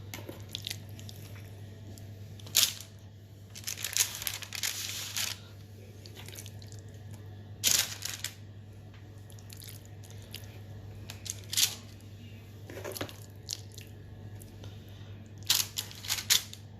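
Kitchen handling noises as marinated chicken pieces are laid on an oven tray: a few short knocks and clatters, and a longer rustling scrape about four seconds in, over a steady low hum.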